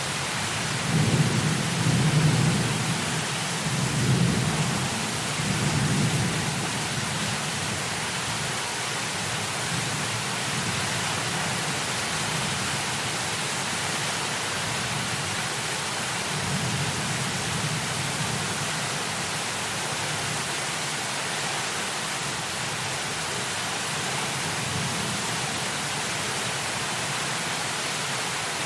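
Heavy rain hissing steadily. Thunder rumbles in several rolling swells during the first several seconds, and fainter low rumbles follow later.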